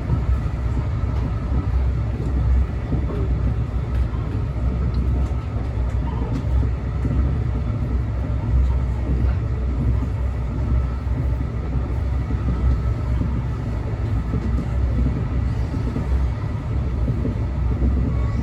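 Train running, a steady low rumble with a faint steady whine above it.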